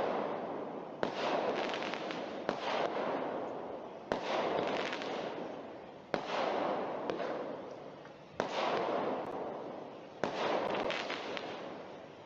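A consumer 200-gram aerial firework cake, RGS's "Acting Out", firing its shots. There are about eight sharp reports a second or two apart, and each is followed by a burst of noise that fades away.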